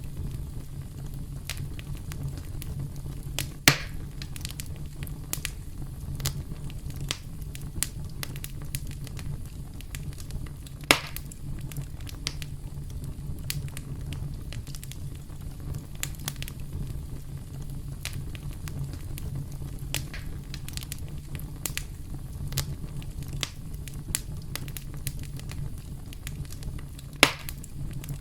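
A campfire crackling: a steady low rumble of burning wood with frequent small crackles, and three louder sharp pops spread through.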